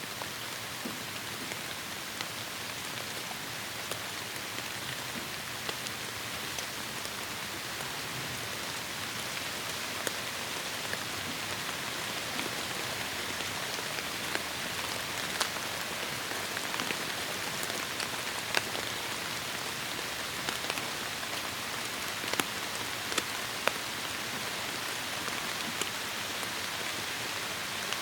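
Heavy rain falling steadily on forest foliage: a dense even hiss with scattered louder drips and drop hits, more frequent in the second half.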